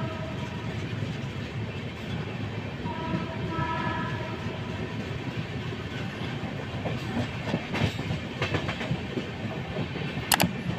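Express train running at speed, heard from an open coach doorway: a steady rumble of wheels on the track. A train horn sounds a short chord as it begins and again about three seconds in. From about seven seconds the wheels set up a growing clickety-clack, with the sharpest clacks near the end.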